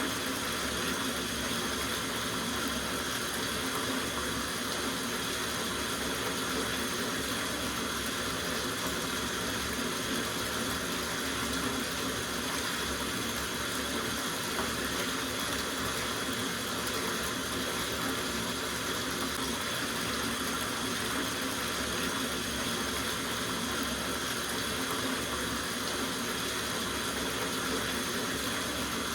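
Water running from a tap into a soaking bathtub, a steady even splashing rush.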